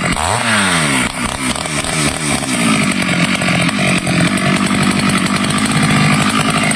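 Stihl chainsaw running loudly: its revs dip and climb back about a second in, then it holds steady at high revs.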